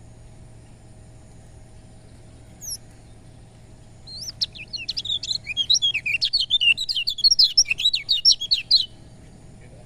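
Kecial kuning, a white-eye, gives one short chirp, then about a second later breaks into a rapid, high twittering song of quick notes that lasts about five seconds and stops before the end. A faint steady hum sits underneath.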